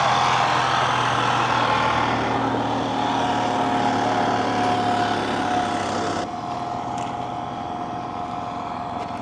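An engine running steadily, with a humming tone that sinks slowly in pitch. Its higher part drops away suddenly about six seconds in, leaving a quieter running sound.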